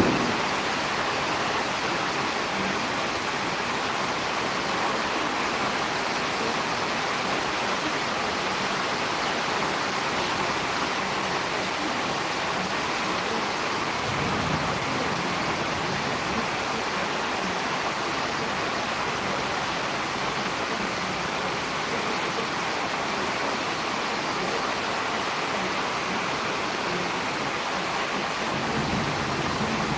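Steady hiss of rain during a storm. A low rumble joins it about halfway through and again near the end.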